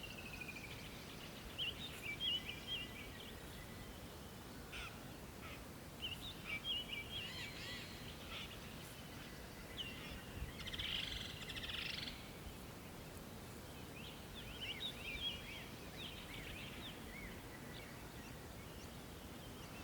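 Wild birds calling in short chirps and trills at intervals, with a denser bout of chattering about halfway through, faint over a quiet outdoor background.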